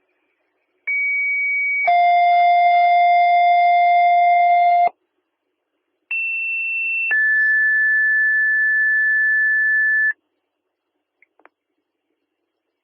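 Fire dispatch two-tone sequential paging tones over a scanner radio, sent twice: each page is a one-second high tone followed by a three-second lower steady tone, alerting a fire company's pagers. A few short radio clicks come near the end.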